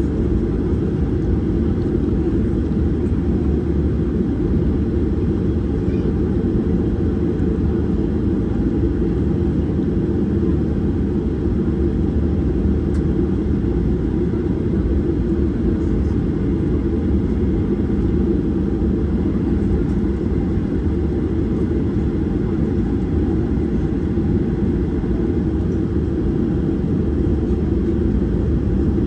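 Steady low roar inside the cabin of a Boeing 737-800: its CFM56-7B engines and airflow, unbroken and even throughout.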